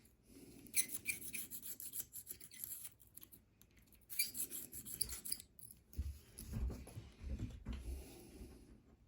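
Screwdriver tip scraping and rubbing old gunk out of a pocketknife's blade channel, in two scratchy spells, followed by a few dull low knocks as the knife is handled.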